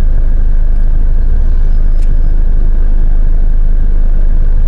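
Loud, steady low rumble with no change in pitch, and a faint click about two seconds in.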